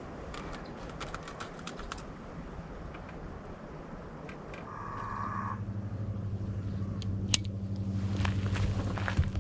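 A few light clicks and rattles, then a short whine about five seconds in and a low, steady engine hum that runs on from there, with a couple of sharp clicks over it.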